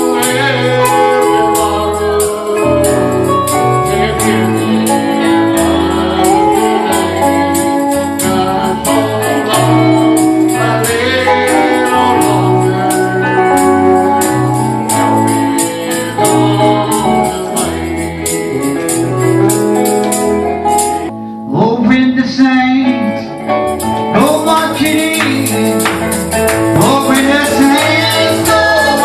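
Gospel music with singing over a steady beat, a tambourine or cymbal striking on each beat above a bass line. About three-quarters of the way through, the beat and bass drop out for a couple of seconds, leaving voices, then the band comes back in.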